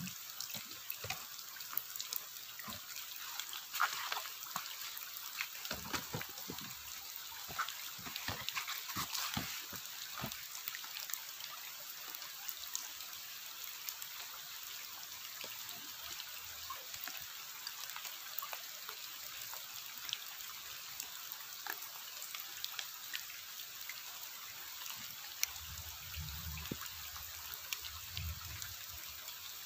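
Rain falling on a river and the foliage around it: a steady hiss with many small drop ticks, busiest in the first ten seconds. Two brief low rumbles come near the end.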